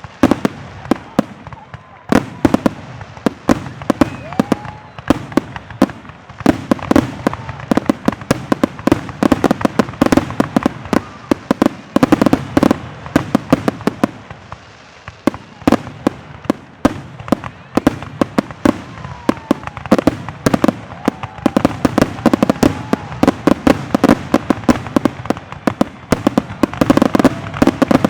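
Fireworks display: a dense, near-continuous barrage of overlapping booms and crackling reports, with a few short lulls.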